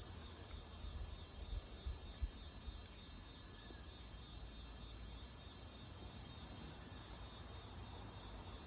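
Steady insect chorus: one unbroken, high-pitched shrill band that holds at the same level throughout, over a faint low rumble.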